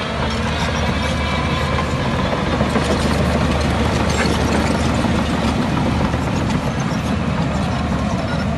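Heavy diesel earthmoving machinery running steadily under way, a strong low engine note with a rough noisy layer on top, rising a little in level about a second in.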